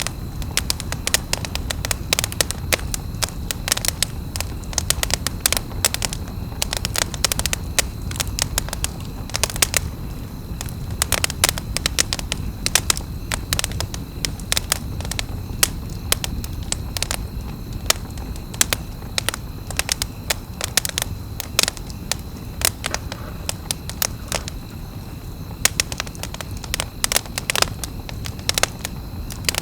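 Campfire burning, crackling and popping in many irregular sharp snaps over a steady low rumble of flame.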